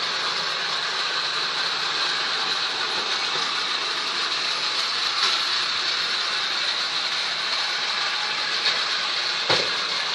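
Steady hiss of heavy thunderstorm rain, with a soft knock near the end.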